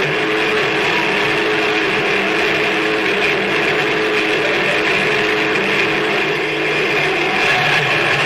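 Harsh noise music: a loud, steady wall of dense noise with droning tones held underneath it.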